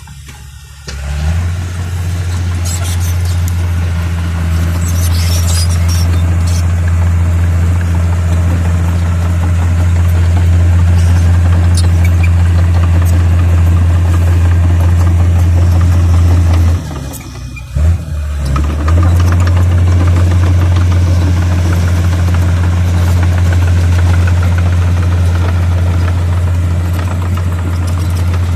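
Bulldozer's diesel engine running steadily with a deep, loud hum while levelling ground. The note drops off briefly about a second in and again around seventeen seconds in, then picks straight back up.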